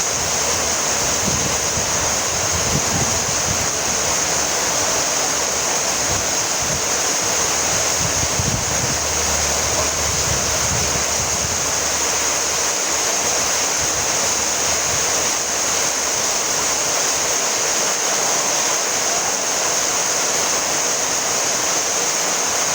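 Steady rainfall: an even, continuous hiss with a strong high edge, with some low rumbling during the first half.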